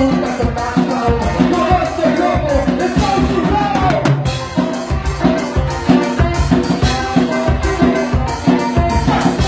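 A band playing live, with drums keeping a steady, fast beat under a melody line.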